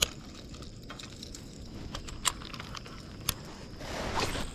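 A few sharp clicks and knocks of fishing and kayak gear being handled, three in all, with a soft swish of water near the end over a low, steady outdoor background.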